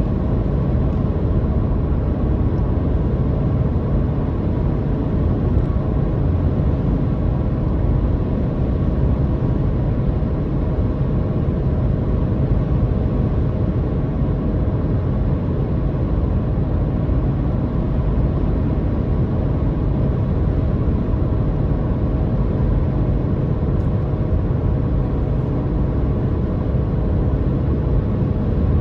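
Car engine and road noise heard from inside the cabin while driving at a steady speed: an even, low drone with a faint steady hum, unchanging throughout.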